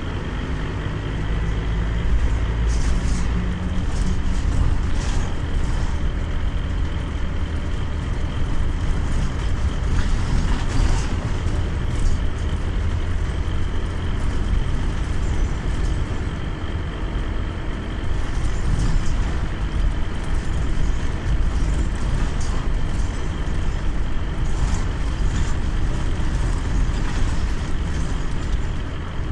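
Scania CN270UB city bus under way: its diesel engine runs with a steady low rumble mixed with road noise, with brief high clicks now and then.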